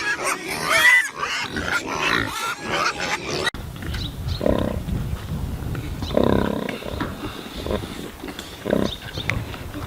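Pigs squealing and oinking in high, wavering cries. Then, after a cut about three and a half seconds in, a pig grunts low, a few times, each a second or two apart.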